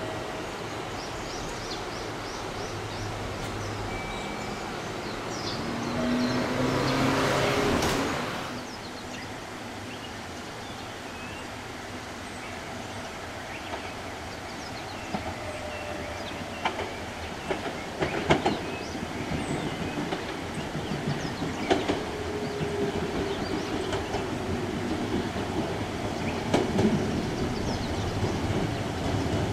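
JR Kyushu 813 series electric train approaching and slowing to stop, its wheels clicking over the rail joints in groups that grow louder and closer together, with a faint whine falling in pitch as it slows. A brief rush of noise swells and fades about six to eight seconds in.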